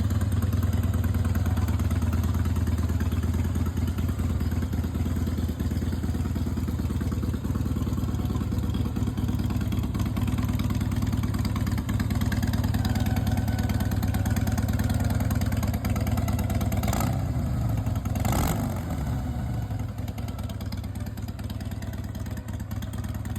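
Harley-Davidson Twin Cam V-twin of a 2008 Night Train FXSTB idling steadily. Two brief throttle blips come about two thirds of the way through, after which the revs fall back to idle.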